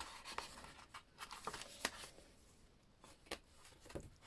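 Faint paper rustling with a few scattered soft clicks as the pages, pockets and tags of a handmade paper journal are handled.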